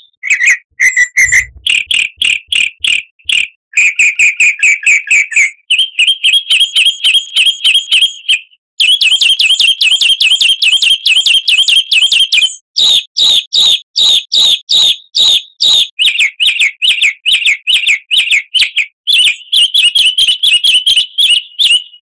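Songbird singing loudly in fast trills and rapid chattering phrases, the phrase type changing every few seconds with brief pauses; it cuts off suddenly near the end. It is a recorded bird-song lure (pancingan) of the kind played to get caged songbirds singing.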